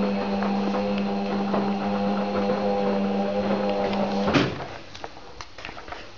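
Beko washing machine running with a steady mechanical hum that cuts off suddenly about four seconds in with a clunk, followed by faint scattered clicks.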